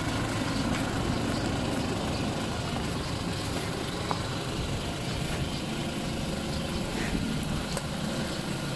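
Toyota Innova's engine idling steadily, an even low hum with no change in pitch.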